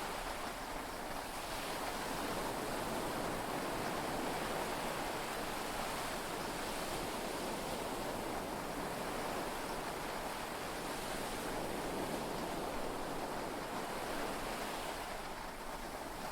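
Steady wash of heavy rain and sea waves heard from inside a yacht's cabin.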